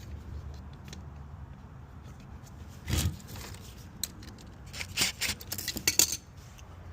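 Metal tools and hardware clinking and rattling as they are handled: a knock about three seconds in, then a quick run of clicks and clinks near the end, over a steady low hum.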